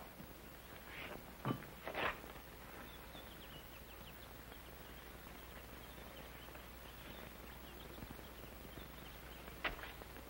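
A few short knocks between about one and two seconds in, then faint high bird chirps over a steady hiss, with one more knock near the end.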